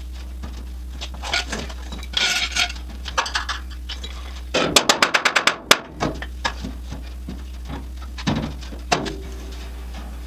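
Metal knocks and clanks from handling car-door hardware and tools, with a quick run of about nine sharp clicks near the middle. A steady low hum runs underneath.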